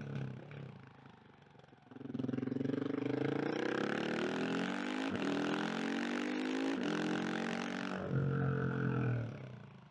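KTM 690 SMC R single-cylinder engine, ridden: almost off the throttle at first, then opened up hard about two seconds in. It pulls with rising and falling pitch and two brief breaks in the note, then drops back to a steady low note near the end and fades as the throttle closes.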